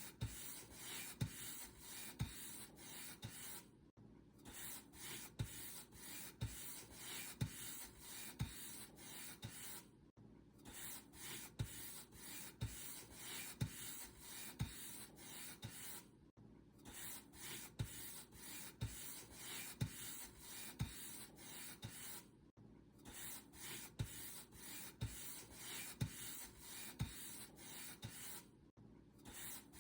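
Paintbrush bristles stroked back and forth over a surface, about two strokes a second, each with a soft bump, with a brief pause about every six seconds.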